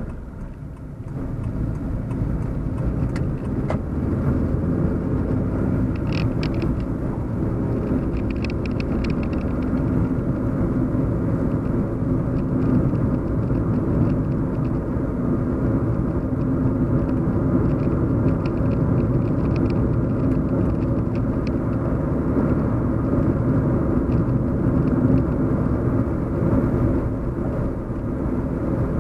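Steady low hum and rumble of a car being driven, heard from inside the cabin. It is a little quieter for the first second or two, with a few faint light clicks or rattles here and there.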